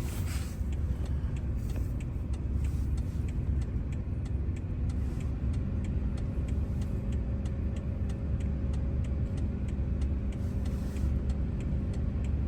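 Steady low mechanical hum, like a running motor or idling vehicle, with a faint, fast, even ticking over it.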